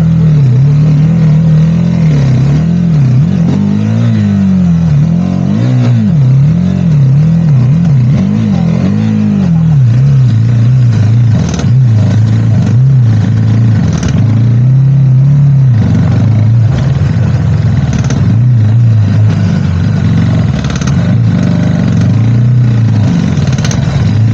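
Motorcycle engine running under changing throttle, its pitch rising and falling again and again as it is ridden over rough ground, with a few sharp knocks and rattles in the second half.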